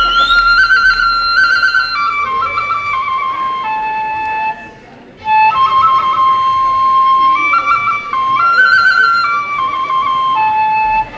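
Kagura transverse bamboo flute playing a melody of held notes that step up and down, with a short break about four and a half seconds in.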